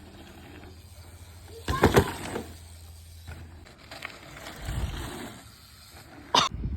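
Knocks and clatter from a BMX bike being ridden, loudest about two seconds in, with a low thud around five seconds and another sharp knock near the end.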